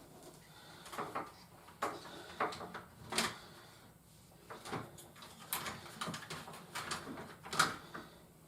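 Toy pieces being handled and set down: a string of irregular clicks and knocks, several sharper ones standing out.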